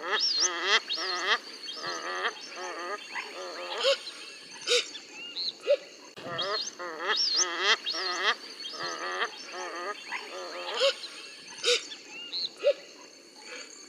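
Tropical forest birds calling. Series of nasal, wavering calls come in bouts, with higher chirps over them and a steady high-pitched drone behind.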